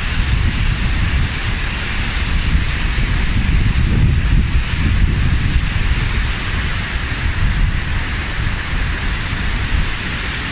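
Fast-flowing mountain stream rushing over rocks, heard up close as a loud, steady roar, with wind rumbling on the microphone.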